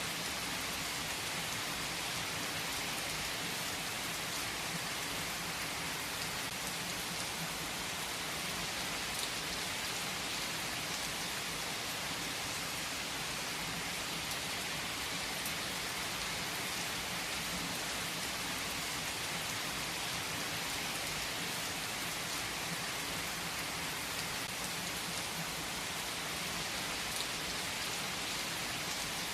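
Steady rain falling, an even hiss with faint scattered drop ticks and no distinct thunderclap.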